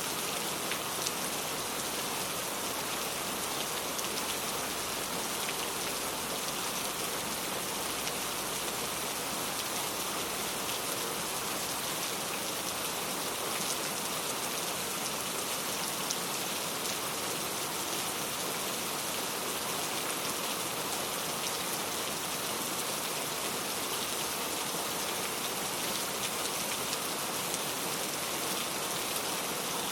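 Steady rain falling, a continuous even hiss with scattered small drop ticks.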